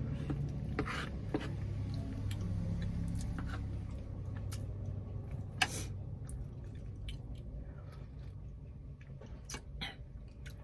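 A person chewing fish and rice with scattered wet mouth clicks and smacks, one sharper click about halfway through, over a low steady hum.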